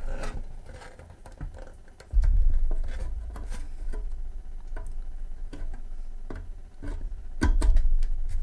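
Handling noises as a desoldering station's power cord is plugged in: scattered light clicks and rustles, with low rumbling bumps that start about two seconds in and grow loudest near the end.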